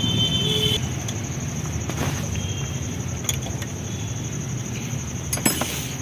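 Maruti Suzuki Swift Dzire diesel engine idling steadily just after being started following its overhaul, with a few light clicks.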